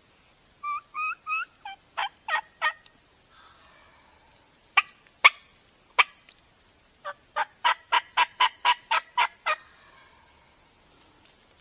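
Turkey calling: three short, yelp-like notes, each stepping up in pitch, then sharp, clipped clucks, ending in a quick run of about ten cutting notes at roughly four a second.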